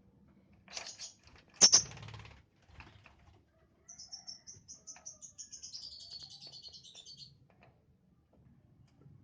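Young lovebird chirping: a rapid run of high, quick chirps lasting about three seconds, midway. Before it come two scratchy rustles, the louder ending in a sharp knock about a second and a half in.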